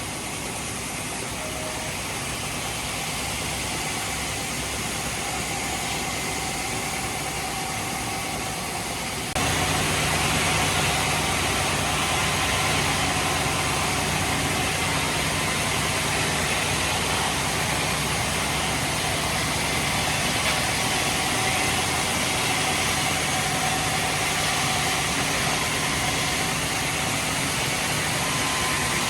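Heavy machinery engine running steadily. About nine seconds in, the sound jumps abruptly louder and brighter, then holds steady.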